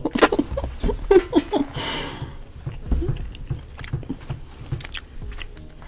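Close-miked chewing and wet mouth sounds of someone eating, with scattered small clicks, and a few brief vocal sounds in the first second or two.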